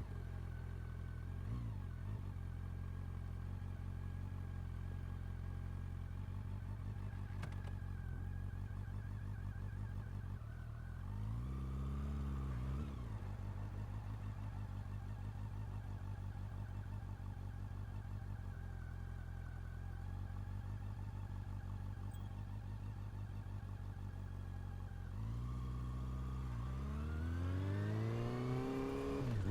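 Honda CB400 Super Four's inline-four engine catching and settling into a steady idle through its exhaust, with a short throttle blip about twelve seconds in. Near the end the revs climb and fall in a few blips.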